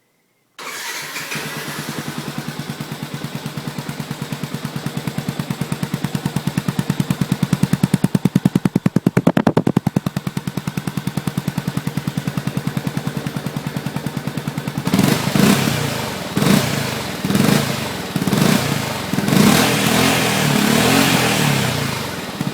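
Yamaha WR125X's 125 cc single-cylinder four-stroke engine starts about half a second in and idles with an even, rapid beat. From about halfway through it is revved in a series of about six short blips, each dropping back toward idle.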